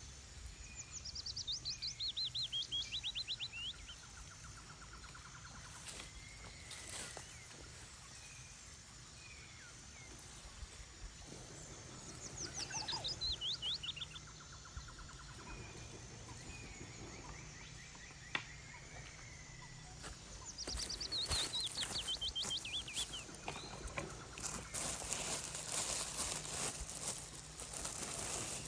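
A songbird sings the same short phrase three times, about ten seconds apart: a quick trill of notes stepping down in pitch, each lasting about two to three seconds. Wind rumbles low underneath, and in the last few seconds a run of crackling clicks comes in.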